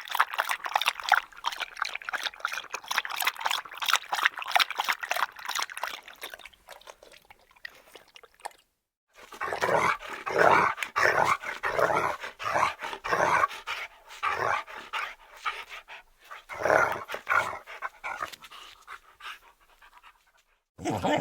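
A dog panting in quick, rhythmic breaths. There is a short break about eight and a half seconds in, and the panting after it comes in more spaced, heavier puffs.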